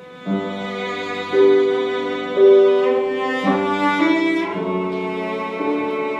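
Cello and piano begin a slow classical piece. The cello comes in about a third of a second in and plays long, held bowed notes over the piano accompaniment.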